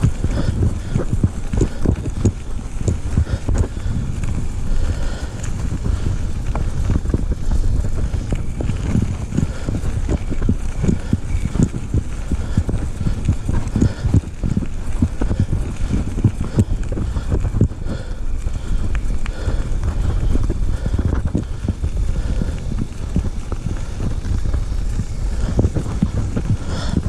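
Horse's hooves clip-clopping steadily in an irregular run of knocks, over a low rumble on the microphone.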